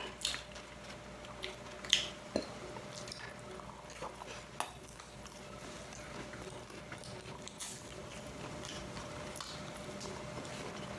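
Eating at close range: cutlery clinking against a plate in a few sharp, scattered clicks, with chewing.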